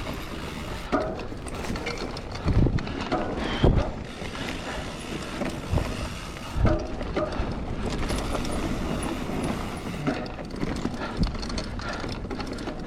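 Mountain bike ridden over a rough trail: a steady rush of wind and tyre noise, with scattered knocks and rattles from the bike. There are short creaks now and then, which the rider puts down to the bottom bracket.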